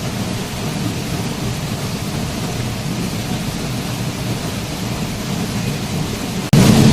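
Waterfall rushing: a steady noise of falling water with a heavy low rumble. About six and a half seconds in, it drops out for an instant and comes back louder, a splice in the recording.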